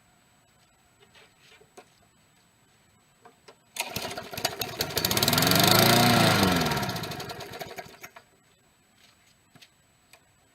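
Push mower's small engine on a cold start: it fires about four seconds in, speeds up, then slows and dies out after about four seconds of running. Light clicks come before it.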